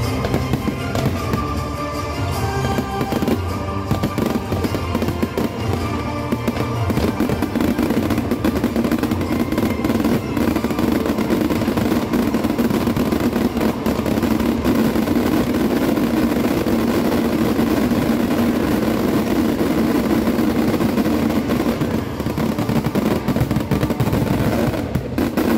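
Aerial fireworks going off in a dense, continuous barrage of bangs and crackles, with music playing over loudspeakers. The music stands out for the first several seconds; after that the nonstop crackling dominates.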